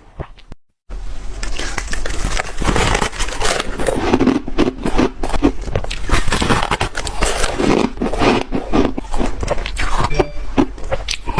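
Close-miked chewing of crunchy ice: dense, irregular crunching and crackling, beginning about a second in.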